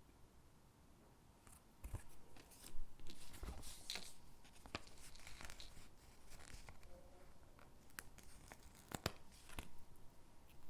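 Stickers being peeled from their backing sheet and pressed onto paper cutouts: quiet for about the first two seconds, then irregular tearing peels and light taps and clicks on paper.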